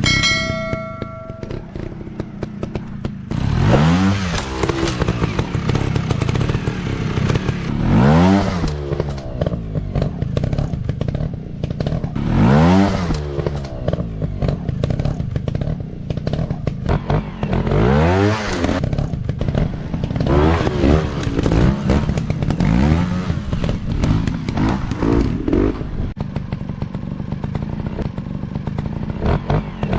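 Dirt bike engines revving in repeated surges, the pitch climbing every few seconds, with short knocks and clatter throughout.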